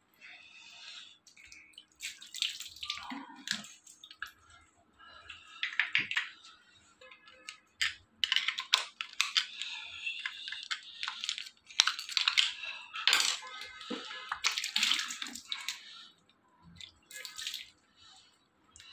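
Water splashing in short irregular bursts, with clicks and scraping, as a shower mixer valve body clogged with limescale and grit is poked clear with a screwdriver and rinsed.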